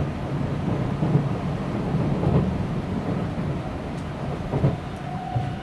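Low running rumble of an N700S Shinkansen train heard inside the passenger cabin. Near the end, a melodic onboard chime begins, the signal that comes before the automated announcement.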